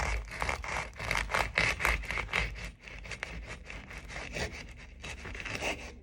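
A knife sawing back and forth through a crusty loaf of pepperoni bread, in quick repeated scraping strokes that stop near the end.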